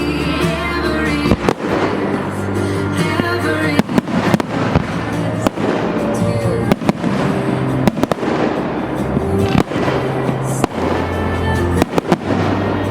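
Fireworks from a 258-shot firework cake going off in sharp, irregular shots and bursts, roughly one or two a second, with music playing underneath.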